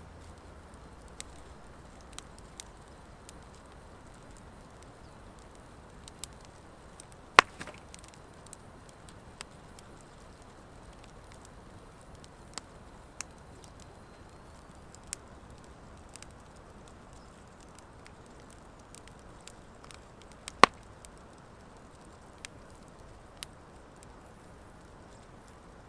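Wood fire of driftwood and dry hardwood logs burning with a soft steady hiss and scattered sharp crackles, two of them loud pops about seven and twenty seconds in.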